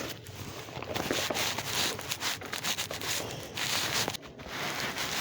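Clothing rubbing and rustling against a phone's microphone carried in a pocket: irregular scraping noise with small clicks.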